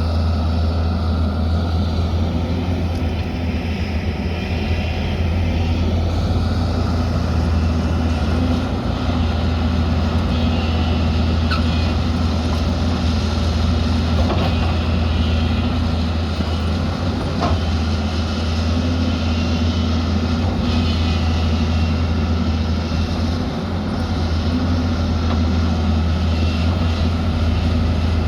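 Diesel engine of a heavy earthmoving machine running steadily under work, a low, even hum with a few faint knocks in the middle.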